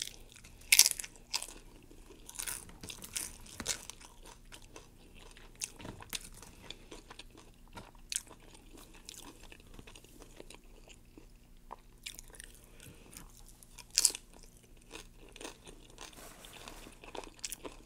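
A person biting and chewing crunchy food close to the microphone: sharp crunches, several in the first few seconds and the loudest about fourteen seconds in, with wet chewing between them.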